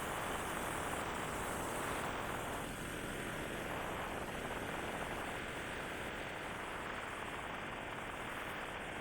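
Steady rushing noise of wind and road from a motorbike in motion, with no distinct engine note standing out.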